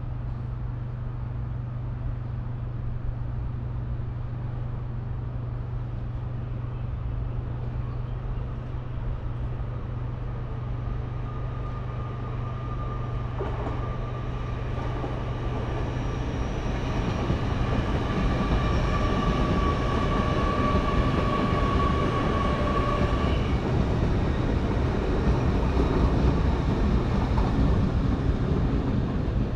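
A train approaching on the line, its sound growing louder through the second half, over a steady low hum. For about ten seconds in the middle a steady high ringing tone sounds, then stops.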